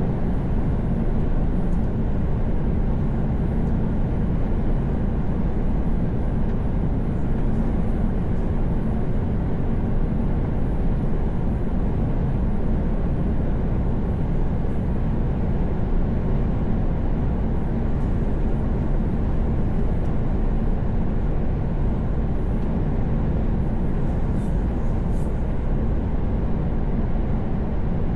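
Heavy truck cruising on a motorway: a steady low drone of engine and road noise that holds level throughout.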